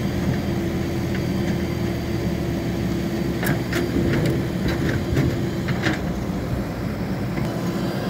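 Swaraj 735 tractor's diesel engine running steadily, with a string of sharp clicks or knocks in the middle.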